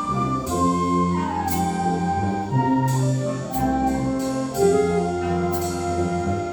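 Wind band playing a brass-heavy passage: sustained chords over a moving bass line, punctuated by repeated sharp percussion hits about every half second to a second.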